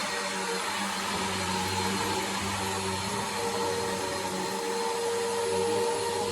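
Bissell PowerForce upright vacuum cleaner running steadily: a motor hum under airflow noise, with a whistle tone that grows stronger about three seconds in.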